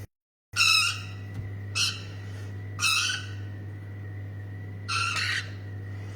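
Young parrots giving short, harsh squawks, four of them spread over a few seconds, with a steady low hum underneath.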